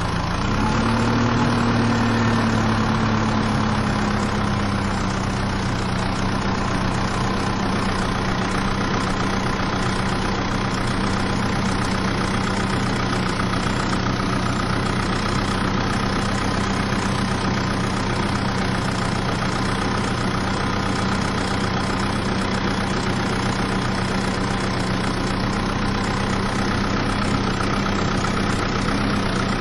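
Heavy vehicle's engine running at a steady idle. Its revs pick up briefly just after the start, then ease back down within a few seconds.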